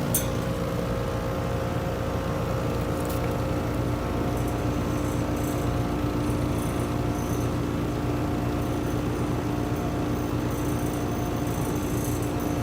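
Outdoor air-conditioning condenser running: compressor and condenser fan giving a steady hum with a couple of constant tones. The unit is working, pushing out hot air well enough that the technician sees no need to check it with gauges.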